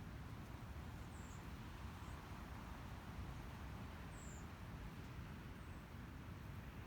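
Faint outdoor ambience: a steady low rumble with a few brief, high, thin bird chirps, each dropping slightly in pitch, spaced a second or two apart.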